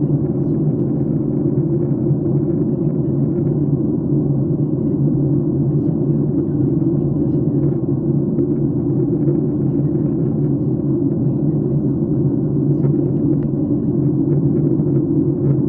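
Steady low drone of an airliner cabin: the engines and airflow heard from inside the passenger cabin, even in level and unchanging.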